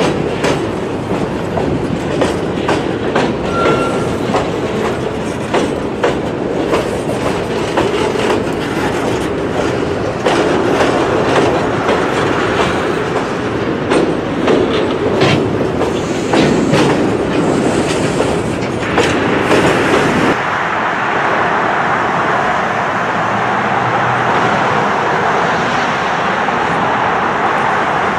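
Freight train boxcars rolling past over a railway bridge, their wheels clicking over the rail joints. About 20 seconds in, the sound switches abruptly to a steady rushing noise with no clicks.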